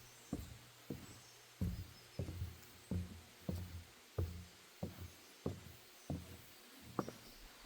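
Footsteps on a wooden boardwalk at an easy walking pace, a low hollow knock about every two-thirds of a second.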